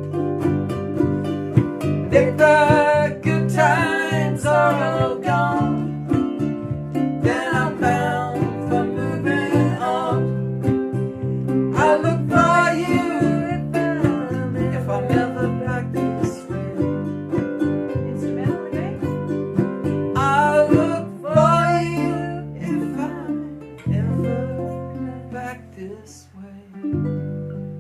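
Strummed acoustic chords in C with a lead line improvising over them in short phrases, a major pentatonic solo. Near the end a last chord is struck and rings out.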